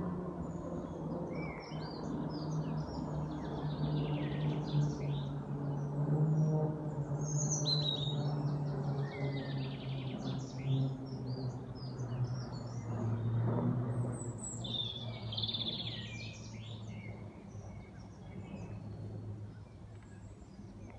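Small birds chirping and singing in short phrases throughout, over a low steady droning tone that steps down in pitch and fades near the end.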